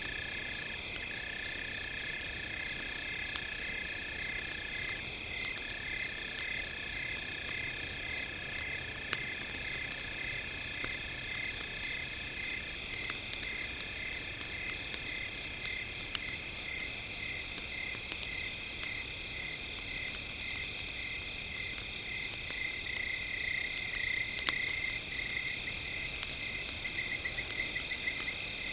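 A steady chorus of high chirping and droning tones, some pulsing a few times a second, with occasional sharp crackles from a campfire.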